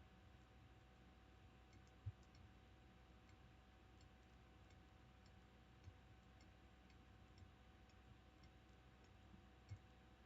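Near silence: a faint steady hum with scattered faint ticks and a few soft low thumps, the clearest about two seconds in and another near the end.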